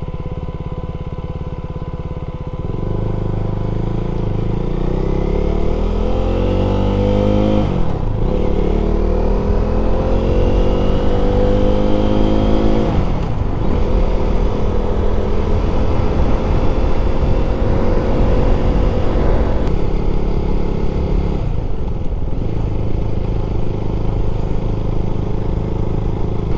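KTM 390 Duke's single-cylinder engine running at low, steady revs, then pulling hard: the revs rise, break at an upshift about eight seconds in, rise again to a second shift about thirteen seconds in, then settle to a steady cruise.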